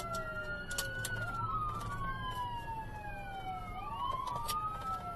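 Police car siren on wail, its pitch sweeping slowly up and down every few seconds, with two wail tones overlapping out of step.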